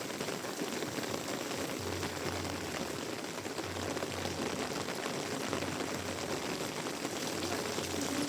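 Heavy rain falling steadily, an even hiss with a faint low rumble that comes and goes.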